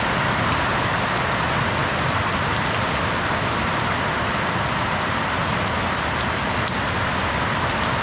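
Heavy rain hosing down, a steady, even hiss of pouring water.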